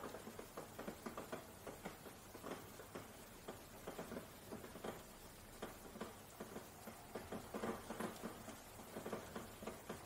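Rain pattering on a window: faint, irregular taps of individual drops over a soft steady hiss, with a brief cluster of louder taps about eight seconds in.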